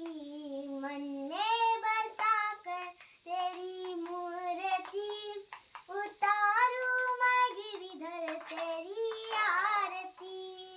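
A young girl, about ten, singing a Hindi devotional aarti to Krishna solo, drawing out long held notes that slide up and down between syllables.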